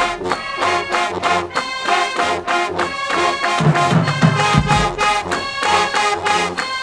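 Marching band brass section and drumline playing loud together, entering all at once at the start with a fast, even drum beat under sustained brass chords; heavy low bass notes come in about halfway through.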